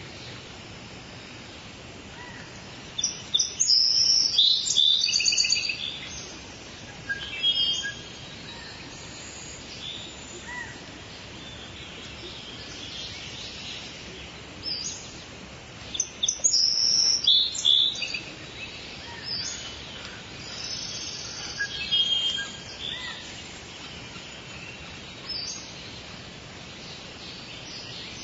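Steady soft rain, with songbirds chirping and singing over it. The birds are loudest in two busy flurries, a few seconds in and again past the middle, with scattered single calls in between.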